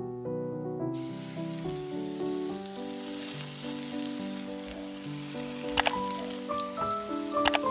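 Breaded chicken pieces sizzling in hot frying oil in a pan. The sizzle starts suddenly about a second in, and there are a few sharp crackles near the end. Piano music plays alongside.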